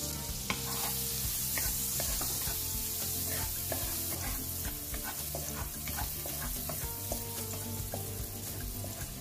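Chopped garlic sizzling in hot melted margarine in a nonstick wok, with a wooden spatula stirring and scraping against the pan in many short, irregular strokes.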